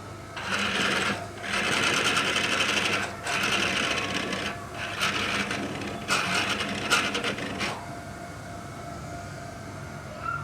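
Several bursts of a small machine's rapid mechanical rattle, each a second or so long with short pauses between, stopping about three-quarters of the way through.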